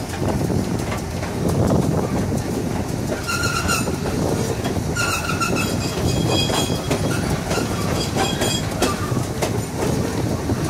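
Passenger railcar rolling along the track: a steady rumble and clatter of wheels on rail, with short high-pitched wheel squeals a few times, the first about three seconds in.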